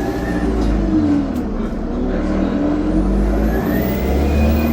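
Bus engine revving as it accelerates, its note rising, dropping about a second in, then rising again. A loud turbo whistle climbs in pitch over the second half.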